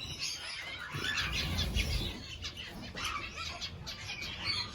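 Mixed flock of canaries and small finches (zebra, Bengalese, star finches) chirping in an aviary, many short high calls overlapping, with a brief low rumble about a second in.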